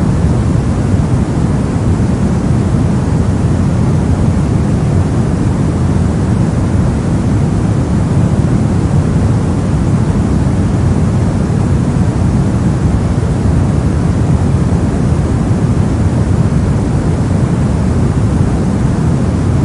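Brown noise: steady synthetic random noise weighted heavily toward the low end, a deep, even rumble-like hiss with no change.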